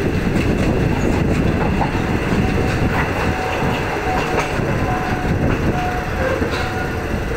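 Passenger train running along the track, heard from an open carriage window: a steady rumble of steel wheels on rail with scattered clicks as the wheels pass over the track.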